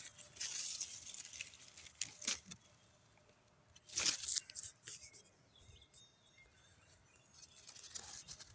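Leaves and vines rustling in several short crisp bursts a second or two apart, quieter toward the middle, as the grapevine foliage is brushed or handled.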